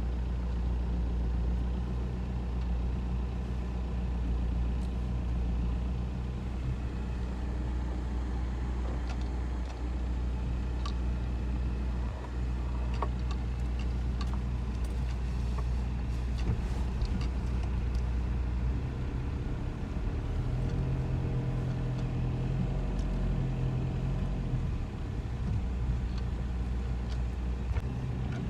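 A steady low vehicle-engine drone with road noise, its pitch shifting about two-thirds of the way through.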